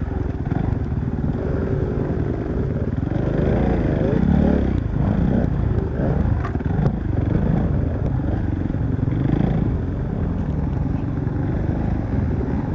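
Off-road motorcycle engine running on a woods trail, its pitch rising and falling as the throttle is opened and closed.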